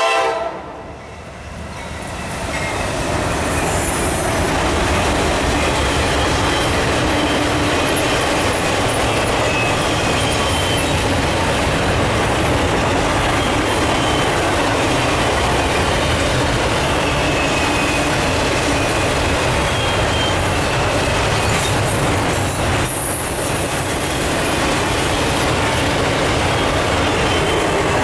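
Intermodal freight train led by three GE diesel locomotives passing close by. There is a steady rumble and clatter of wheels on rail that builds over the first few seconds and then holds, with faint high wheel squeals here and there.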